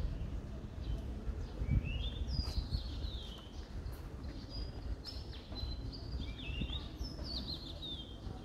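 Small birds chirping in many short, quick phrases, some sliding up and some down in pitch, over a steady low rumble.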